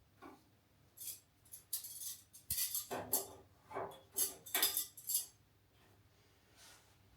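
Irregular metallic clattering and jingling: a quick run of clinks and rattles with a dull knock among them.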